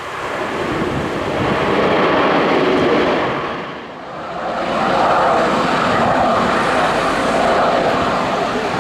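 Airliner jet engines on a landing approach: a loud steady rush that builds, dips briefly about four seconds in, then swells again.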